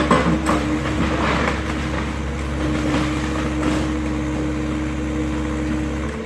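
Excavator's diesel engine running steadily at a constant pitch, with a few knocks and crunches of demolition debris in the first second and a half.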